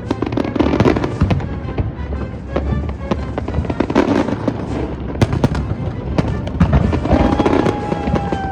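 Aerial fireworks going off: a rapid run of bangs and crackles over a low rumble, with music playing underneath. Near the end a long, steady tone holds for about two seconds.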